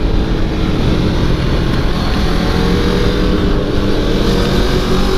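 Motorcycle engine running at speed under heavy wind noise, heard on board; its note climbs slowly over the second half as the bike accelerates.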